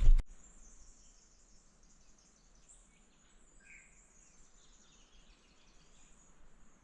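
Faint bush ambience: insects buzzing steadily in a high band with a few short bird chirps, after a brief loud sound that cuts off at the very start.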